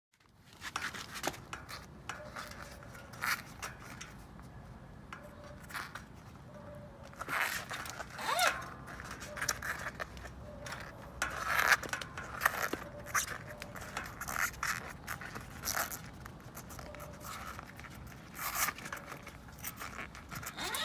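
Irregular scraping and rubbing strokes with scattered clicks, as of hand work on a bicycle's metal or rubber parts. A cluster of louder strokes comes about halfway through.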